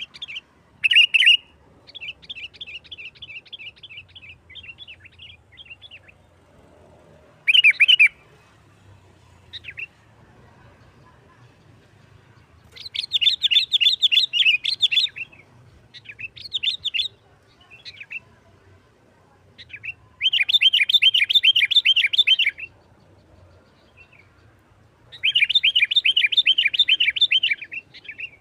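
A sooty-headed bulbul (kutilang) sings in the fast, excited 'nggaruda' style: bouts of rapid chattering trills, each one to three seconds long, with short pauses between them.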